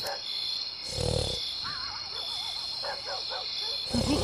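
Short wavering animal calls over a steady high-pitched trill, with a low thud about a second in; the calls grow stronger and more frequent near the end.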